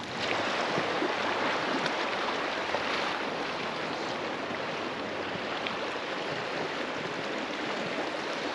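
River water rushing and splashing steadily around a floating raft.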